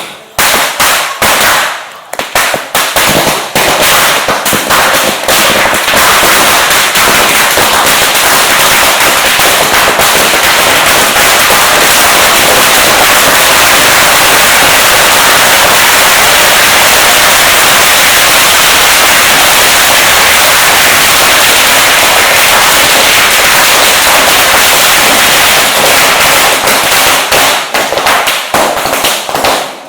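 Firecrackers going off very loudly: a few separate sharp bangs at first, then a dense, unbroken rattle of rapid cracks for most of the stretch, thinning back to separate bangs near the end.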